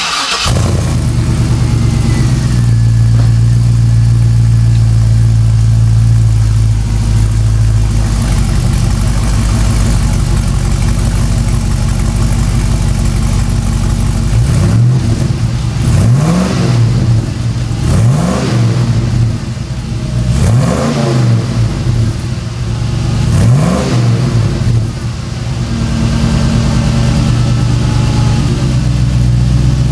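GM LS V8 in a Jeep Wrangler running through a freshly fabricated exhaust, with both banks merged into one muffler and a single 3-inch tailpipe. It fires up, idles steadily, then is revved five or six times in quick blips about halfway through before settling back to idle.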